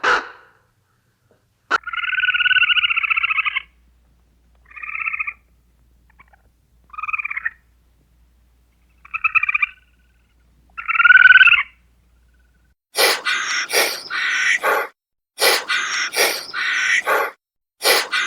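Animal calls: one long buzzing call, then four short calls a couple of seconds apart, then from about two-thirds of the way in a run of loud, harsh, repeated calls.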